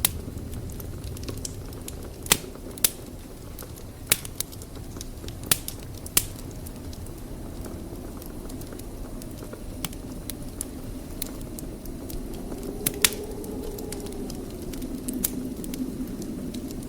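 Wood fire burning in a fireplace: a steady low rumble of flames with sharp, irregular crackles and pops from the burning logs, a few of them standing out loudly.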